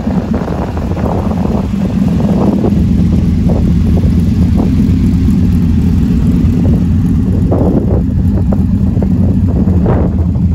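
Engine of an early-1970s Plymouth GTX restomod idling with a low, uneven rumble through its side-exit exhaust, louder from about two seconds in.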